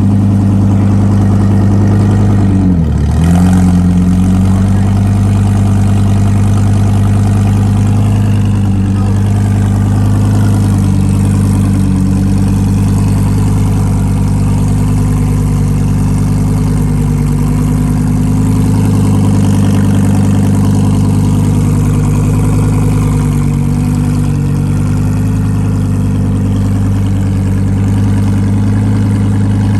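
A car engine idling steadily and loudly at close range. Its engine speed dips briefly and comes back up about three seconds in.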